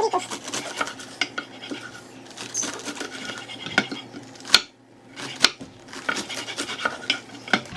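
Kitchen knife finely slicing lettuce on a cutting board: a run of quick, irregular taps and crisp cuts, with two sharper knocks about halfway through.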